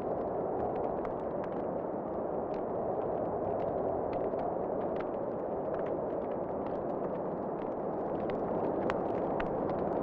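Wood fire crackling, with irregular sharp pops and snaps over a steady rushing background.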